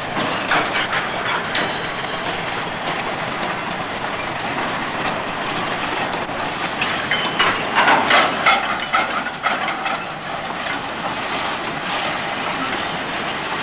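Dubbed sound effect of a train running on rails: a steady noisy rumble with an even light clicking, about three a second. A few louder clatters come about eight seconds in.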